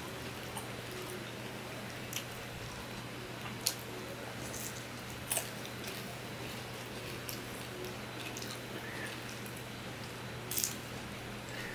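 Close-miked eating sounds of a man eating rice and fish curry by hand: soft wet chewing with a few sharp mouth clicks and smacks, the clearest about four, five and ten and a half seconds in, over a steady low hum.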